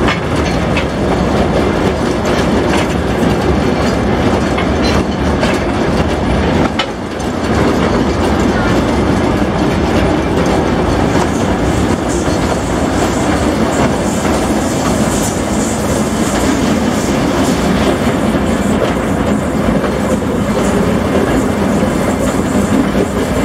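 Narrow-gauge railway train running at speed, its wheels and wagons rattling over the track, heard from on board. The noise dips briefly about seven seconds in.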